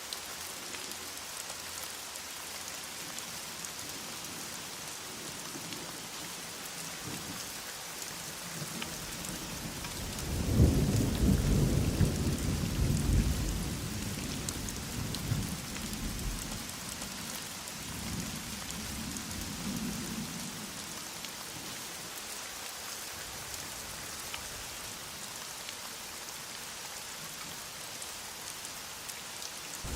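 Steady heavy rain hissing, with a low rolling rumble of thunder about a third of the way in that is loudest at first and dies away over roughly ten seconds.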